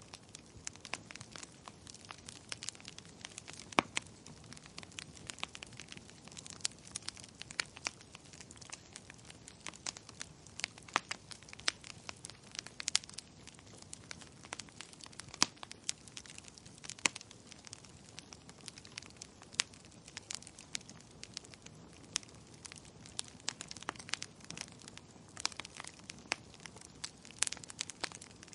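Wood fire crackling in a fireplace: irregular sharp pops and snaps, several a second and some much louder than others, over a soft steady hiss.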